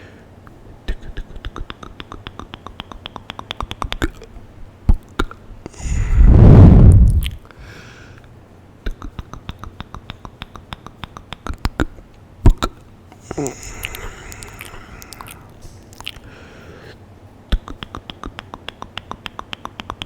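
Close-miked ASMR mouth sounds: rapid wet clicks and smacks of tongue and lips, about ten a second, in runs. About six seconds in comes a loud low rush of breath onto the microphone, and there is a softer breathy stretch a little past halfway.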